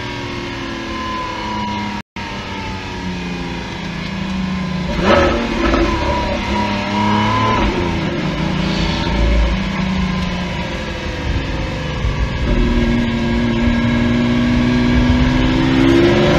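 Lamborghini Aventador SVJ's naturally aspirated V12 running in second gear under varying throttle, its pitch easing off and then climbing toward the end. There is a sudden burst of noise about five seconds in, and the sound cuts out briefly about two seconds in.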